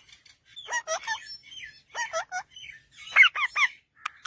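Parrots calling with short squawking calls that bend in pitch, in three quick bursts. The last burst is the loudest.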